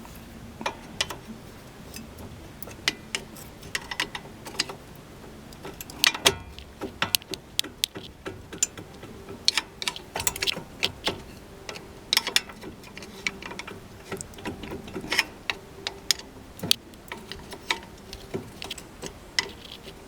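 Renault Logan front brake pads knocking and clicking in the caliper as they are rocked by hand: a run of irregular sharp metal taps. The loose pads have play, which the owner takes for the source of the front-suspension knock.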